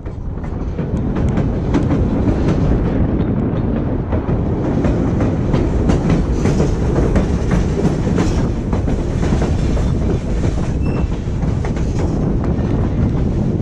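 Narrow-gauge White Pass & Yukon Route excursion train running, heard from aboard: a steady low rumble with the irregular clatter of wheels over rail joints. It swells up in the first half second.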